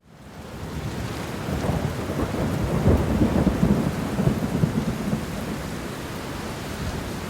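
Wind rumble and road noise on the camera microphone of a moving off-road vehicle, fading in over the first second, then a steady, loud, gusty rush.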